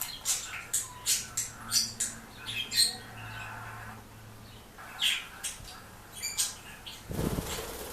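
A bird giving a rapid series of short, sharp high calls, with a lull in the middle. A brief noisy burst comes near the end.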